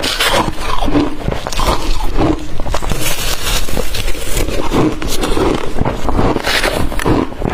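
Close-miked crunching and chewing of blended ice in the mouth, with swallowing, in dense irregular bursts.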